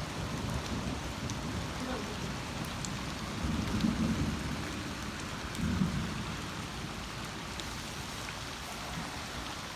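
Steady heavy rain falling, with low rumbles of thunder swelling briefly around the middle.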